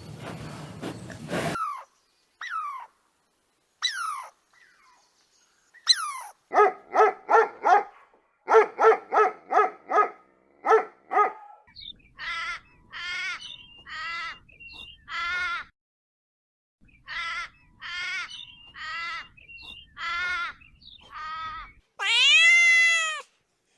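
Animal calls: a few quick falling chirps, then a fast run of short pitched calls, about four a second, followed by a slower series of arched calls and one loud, longer arched call near the end.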